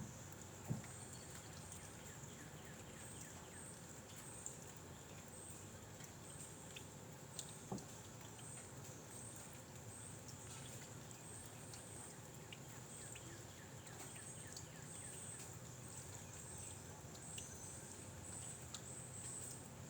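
Faint outdoor ambience: a steady high-pitched insect chirring that pulses about one and a half times a second, over a low wind rumble, with a few soft clicks.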